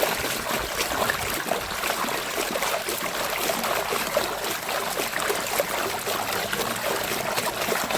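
Water splashing and trickling steadily as a muddy toy police car is washed by hand in water.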